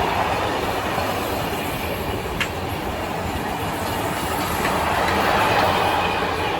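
Freight train passing, its wagons running steadily over the rails, with a single sharp click about two and a half seconds in.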